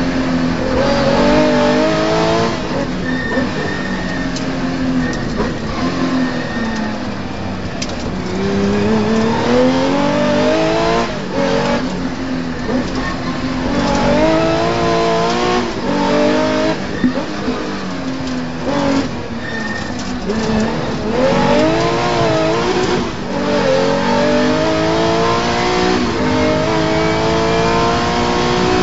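Porsche 911 rally car's flat-six engine heard from inside the cockpit, accelerating hard with its pitch rising again and again and dropping back at each gear change, over steady tyre and road noise.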